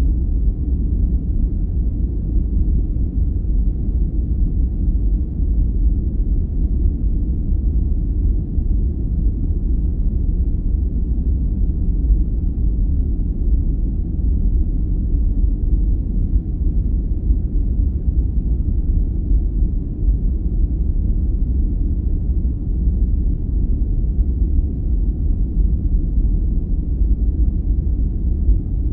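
Continuous sleep noise: a steady, deep, muffled hiss with its weight in the bass and nothing high, unchanging throughout, closer to brown noise than to bright white noise.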